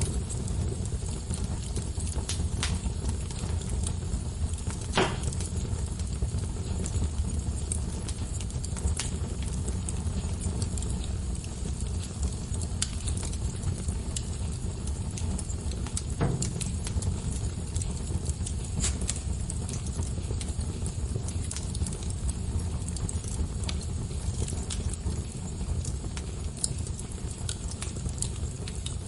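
Wood fire crackling in a fireplace: a steady low rumble of burning with scattered small crackles and two louder pops, about five seconds in and again near the middle.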